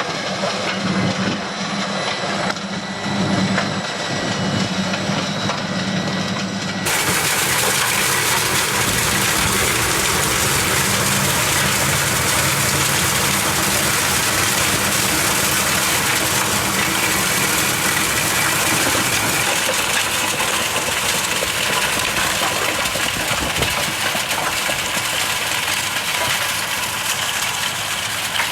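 Heavy diesel construction machinery running steadily at a road-works site. About seven seconds in, the sound abruptly turns into a loud, steady rushing noise that covers the engine hum.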